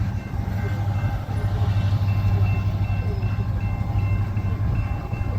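Mixed manifest and intermodal freight train rolling past with a steady low rumble, and faint high tones coming and going.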